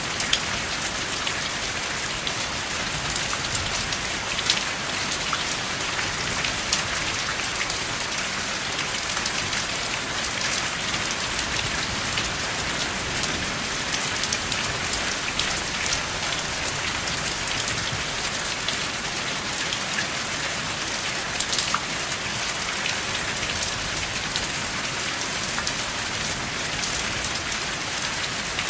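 Steady rain without thunder: a dense, even hiss of falling rain with many individual drops ticking sharply through it.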